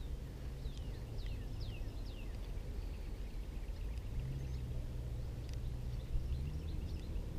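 A bird calling a quick series of four falling whistled notes about a second in, over a steady low hum that steps up in pitch about halfway through.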